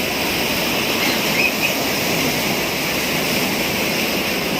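Steady rushing noise of churning water in an artificial wave pool.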